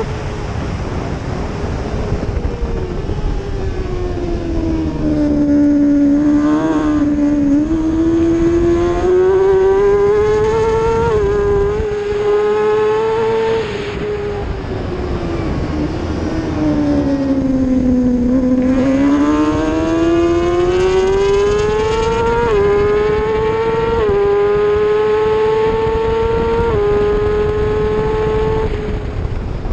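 Race motorcycle engine at high revs. The revs fall away twice under braking and climb in between, and near the end it runs up through several quick upshifts, each a brief drop in pitch.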